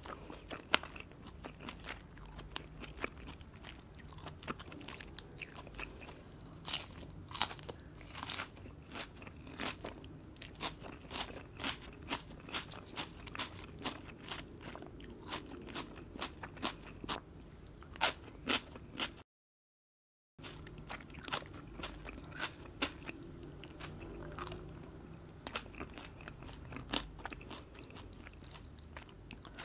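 Close-miked eating: a person chewing and biting crisp food, with many sharp crunches throughout. The sound drops out completely for about a second a little past the middle.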